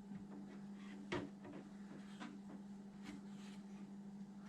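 Faint handling of small RC truck parts on a workbench, with one sharper click about a second in, over a steady low hum.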